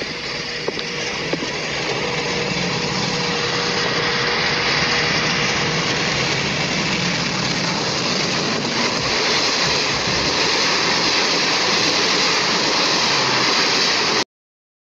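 A passenger train rushing past at speed on an old film soundtrack: a steady, hissy roar that swells over the first few seconds, holds, then cuts off abruptly near the end.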